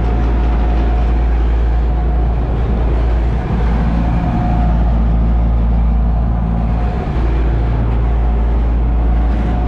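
Motorboat engine running steadily under way, a constant low drone.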